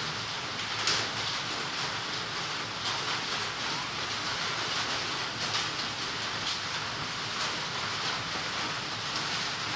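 Steady hiss of light rain falling on tree leaves, with a few sharp ticks of drops or twigs, the loudest about a second in.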